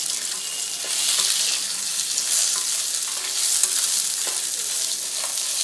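Tomato pieces, shallots, peanuts and dal sizzling steadily in hot oil in a stainless steel kadai while a wooden spatula stirs and scrapes through them: tomatoes being sautéed until soft.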